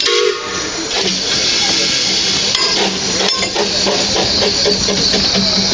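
Steam hissing steadily from a Quarry Hunslet narrow-gauge steam locomotive, with scattered light metallic clicks and clanks.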